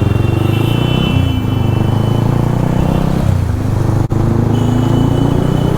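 Road traffic: vehicle engines running in a steady low rumble, with a thin high tone held over the first three seconds and a very brief dropout about four seconds in.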